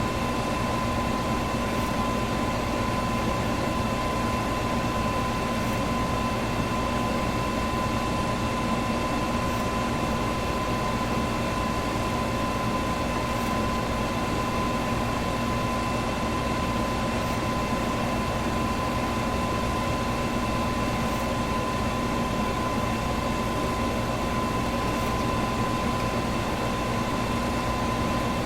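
Electric fan running steadily: an even rush of air with a constant whine running through it.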